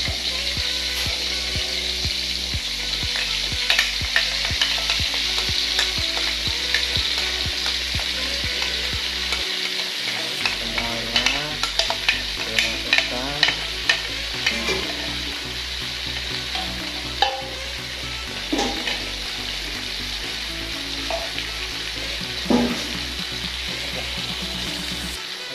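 Blended chili spice paste sizzling steadily as it fries in oil in a wok. About halfway through comes a run of sharp taps and scrapes as a spoon scrapes the last paste out of a glass jar into the wok.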